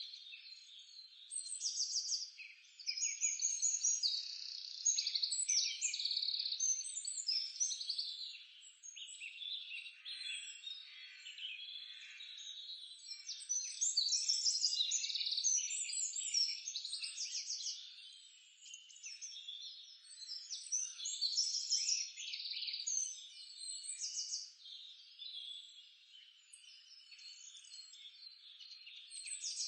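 A dense chorus of small birds chirping and trilling, with many short high calls overlapping. It swells and fades in waves, loudest around the middle.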